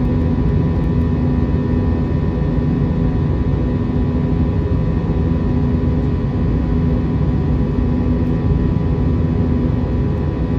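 Steady cabin noise of an Airbus A321 under way: the drone of its jet engines and the rush of air, with a few constant whining tones over it and no change in level.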